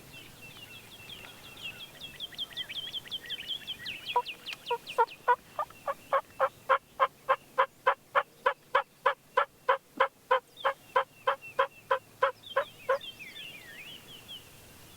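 A long, even series of turkey yelps, about three a second and loud, which stops a couple of seconds before the end. A songbird's fast run of high, down-slurred notes comes before it and picks up again once the yelps stop.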